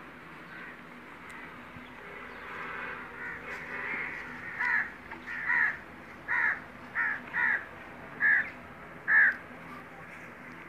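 A bird calling: softer calling at first, then seven short, loud calls in a row through the second half.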